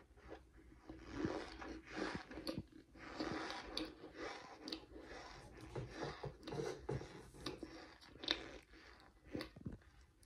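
A mouthful of cornstarch being chewed with the mouth closed, in irregular crackly bursts with small clicks.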